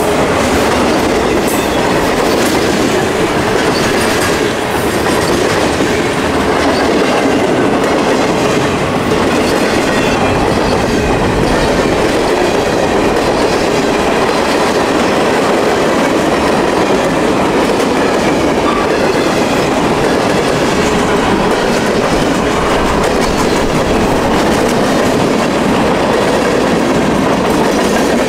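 Train rolling past close by, its steel wheels running on the rails in a steady, loud rumble.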